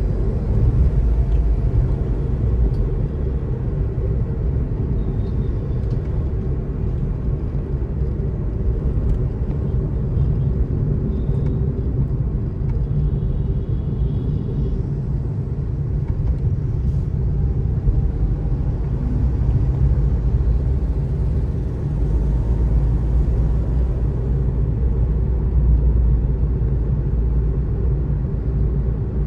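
Steady low rumble of a vehicle driving on a road, with road and wind noise.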